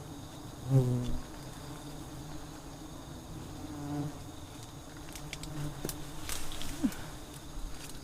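Giant honey bees (Apis dorsata) buzzing around their disturbed nest, a steady hum with louder swells about a second in and again around four seconds as bees pass close to the microphone. A few light clicks are heard in the second half.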